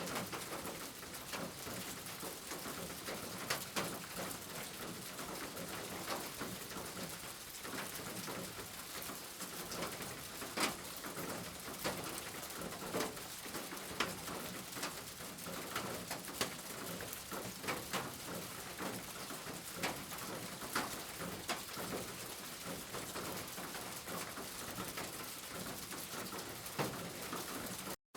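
Steady rain falling, an even hiss with frequent sharper drops striking close by.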